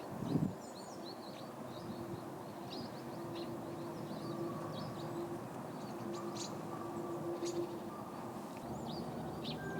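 Small feeder birds giving short, high chirps and calls scattered throughout, over a faint steady hum and outdoor background noise, with a low thump about half a second in.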